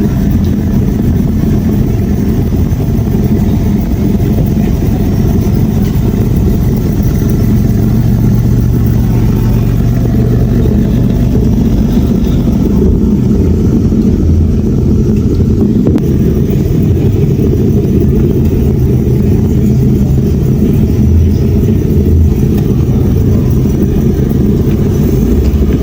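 A car engine running loud and steady close to the microphone, a deep rumble with a steady hum in it.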